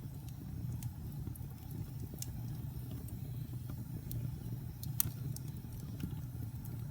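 Wood fire burning in a fireplace: a low steady rumble with scattered sharp crackles and pops, the loudest pop about five seconds in.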